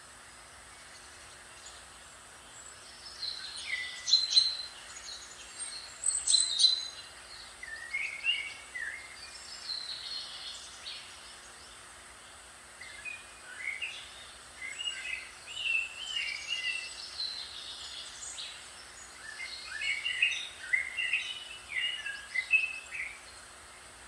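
A songbird singing in short, quick chirping phrases that come in bursts from a few seconds in until near the end, over a steady soft hiss.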